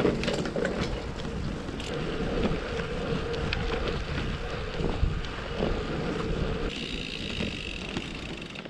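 Wind rushing over the microphone of a moving bicycle, with road noise and a steady hum underneath; a higher hiss joins in near the end.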